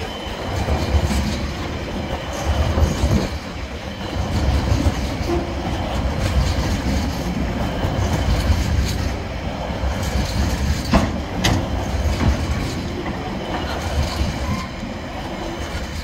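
Freight train's container and tank wagons rolling past close by: a steady heavy rumble of steel wheels on the rails with uneven clatter, and two sharp clanks about eleven seconds in.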